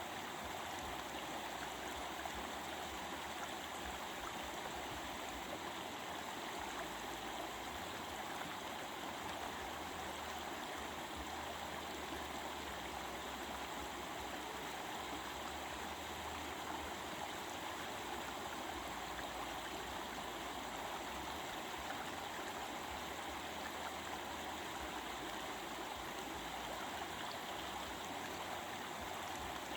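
Stream of water flowing and babbling steadily, an even rushing with no break or change.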